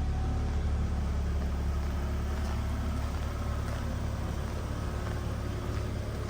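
Mazda Bongo van's engine idling steadily a few minutes after a cold start, a smooth low hum that the owner calls quiet, with no weird sounds.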